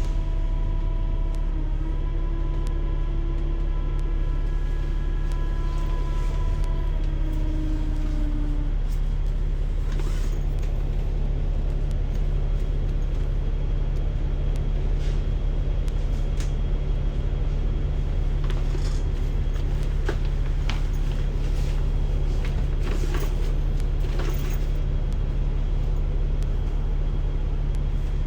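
City bus running, heard on board: a steady low engine rumble, with a pitched whine over it for the first eight seconds or so that shifts slightly in pitch and fades out, and scattered small rattles later on.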